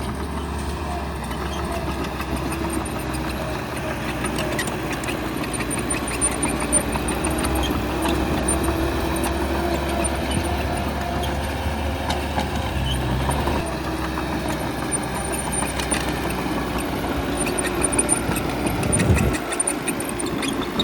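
Heavy diesel construction machine engine running steadily, with scattered sharp clanks. Near the end there is a brief dip and rise in the engine's pitch.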